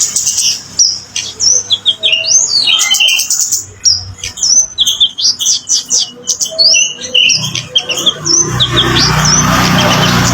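Kemade bird singing a rapid, varied string of chirps and short sliding whistles. Near the end a steady rushing noise with a low hum comes up beneath the song.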